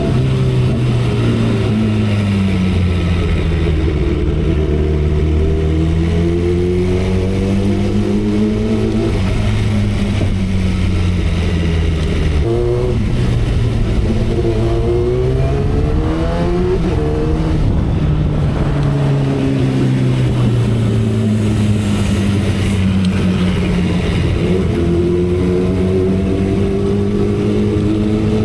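2012 Kawasaki Ninja ZX-10R's 1000cc inline-four engine running at cruising speed, its note slowly falling and rising in pitch, with a brief break about twelve seconds in. Wind noise runs under the engine.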